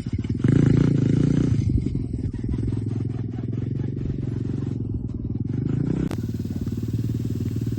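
Tao Tao DB17 125cc pit bike's engine running, louder for about a second near the start, then at a steady lower level.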